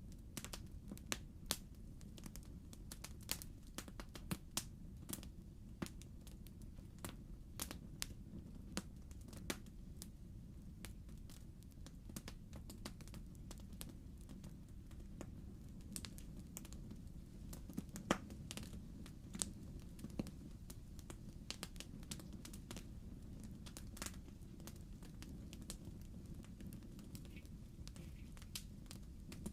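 Wood fire in a fireplace crackling: irregular sharp pops and snaps, a few louder ones scattered through, over a low steady rumble.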